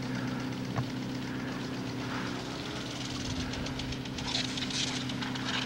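Lawn sprinkler spraying water, a rapid hiss that grows louder about four seconds in, over a steady low mechanical hum.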